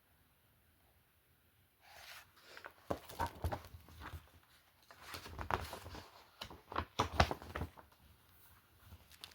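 Paper rustling and crackling as a book's pages are handled and turned, in two main bursts of rustles and small clicks beginning about two seconds in, with fainter clicks near the end.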